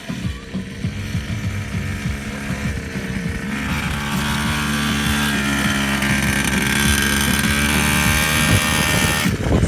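Motorcycle engine running steadily, growing louder about three and a half seconds in.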